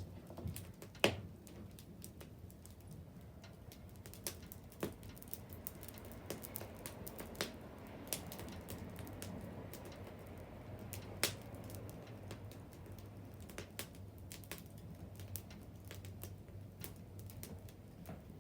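Wood fire crackling: irregular sharp pops and ticks of burning wood over a low steady hiss. The loudest pops come about a second in and a little past halfway.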